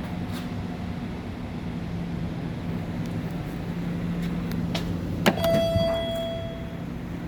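1986 Dover elevator running with a steady low hum. About five seconds in there is a sharp click, then a single ringing chime that lasts about a second and a half, typical of an elevator's arrival chime.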